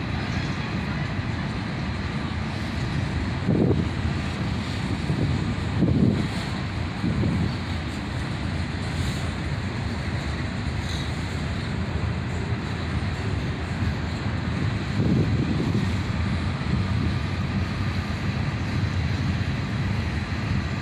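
Freight cars of a long mixed manifest train rolling past: a steady rumble with several louder low thumps from the cars and wheels.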